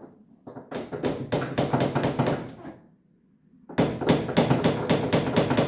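Rapid hammer blows knocking on the steering linkage of a 1959 Triumph TR3 to drive a part free for steering rack removal. Two quick runs of strikes, about five a second, with a pause of about a second between them.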